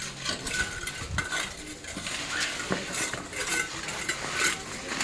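Gravel and stones being put back into a dug-up hole over a repaired water pipe: irregular scraping and clinking of stones.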